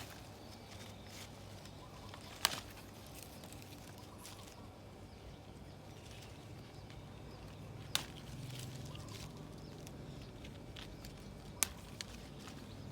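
Sharp snaps of young phak kradon shoots being picked by hand, three distinct ones a few seconds apart, over faint rustling of leaves.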